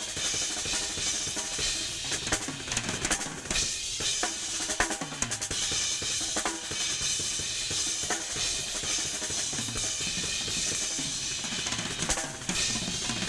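Drum kit played as an improvised solo: rapid, dense strokes on snare and bass drum with rimshots.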